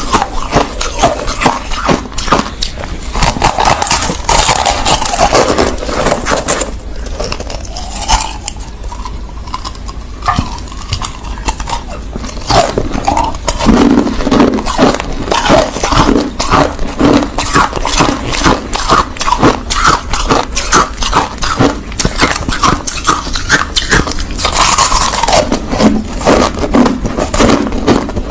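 Crushed ice being chewed: a dense, continuous run of loud crunches, thinning out for a few seconds about a third of the way in.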